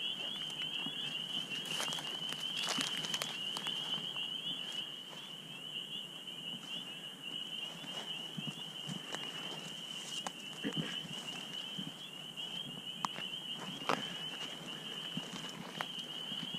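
Footsteps crunching and knocking over brush and ground cover at night, irregular. Behind them a steady, high-pitched trilling chorus of night creatures never lets up.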